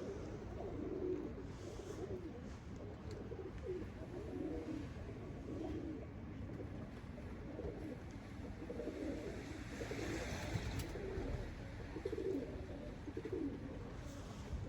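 Domestic pigeons cooing, many short low coos following one another and overlapping, over a steady low rumble.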